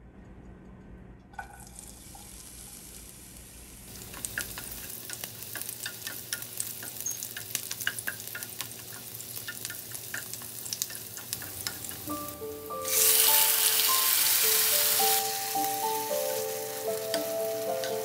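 Food frying in hot oil: a sizzle dotted with crackling pops builds from about four seconds in, then turns into a loud, dense sizzle for about two seconds. Light music with melodic notes comes in about twelve seconds in.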